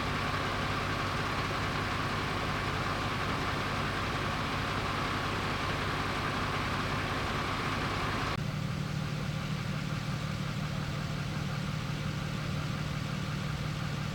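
Vehicle engines idling steadily. About eight seconds in the sound changes abruptly to a lower, steadier hum.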